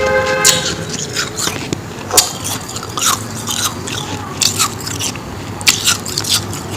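Close-up crunching of powdery ice being bitten and chewed, in sharp, irregular crunches every second or so.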